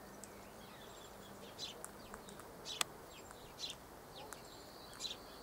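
Faint, short, high bird chirps scattered about a second apart, with a thin steady high tone coming in near the end.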